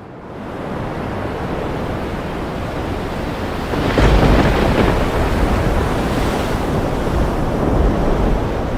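Storm sound effect of rushing wind and crashing sea waves. It swells up about half a second in and surges loudest around four seconds in.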